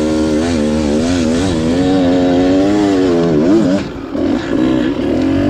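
Beta Xtrainer 300's two-stroke single-cylinder engine pulling under load up a hill climb, its pitch wavering as the throttle is worked. About four seconds in, the revs and loudness drop briefly before picking up again.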